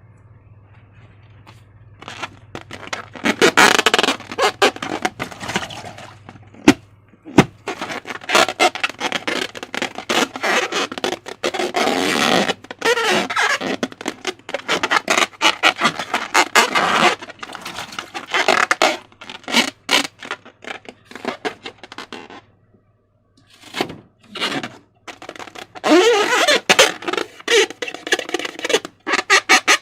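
Slime being squished and worked by hand, giving dense, irregular sticky clicks and squelches, with a short pause about three-quarters of the way through.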